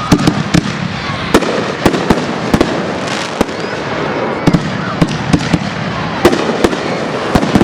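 Fireworks display: an irregular string of sharp bangs, sometimes two or three in quick succession, over a steady wash of noise.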